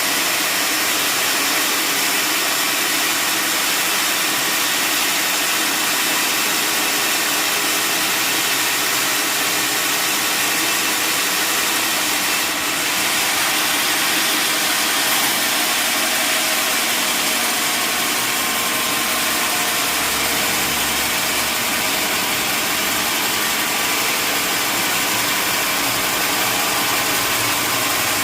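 Sawmill machinery running steadily, a continuous mechanical drone with several steady tones and no break.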